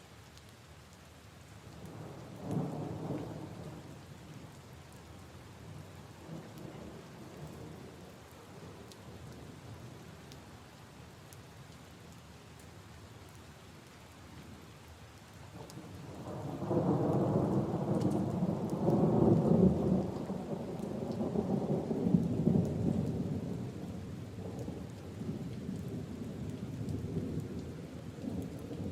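Steady rain falling on leaves and puddles with scattered drip ticks. A short rumble of thunder comes a couple of seconds in, and a much longer, louder rumble starts about halfway through and slowly dies away.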